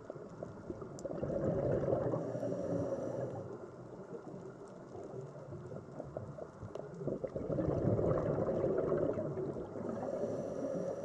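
Sea water surging and washing in two slow swells about six seconds apart, with a fizzing, crackling texture between them.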